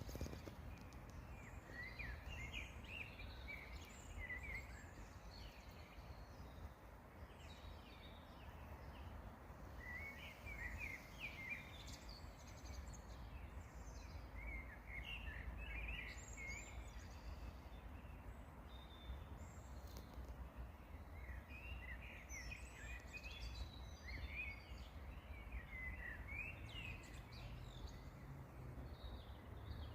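Songbirds singing in scattered bursts of quick, high chirps and trills, over a steady low rumble.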